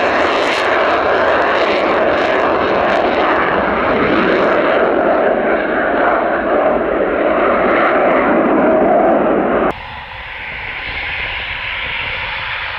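Eurofighter Typhoon jet engine noise, loud and steady. About ten seconds in it breaks off abruptly and gives way to quieter jet noise that slowly grows louder.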